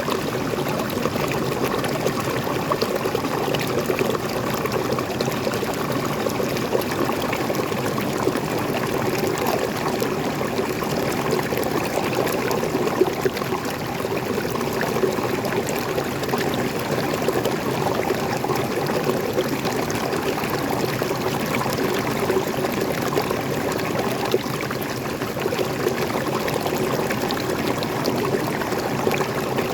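Small forest waterfall: water pouring and splashing steadily, with fine trickling and droplet splashes over a constant rush.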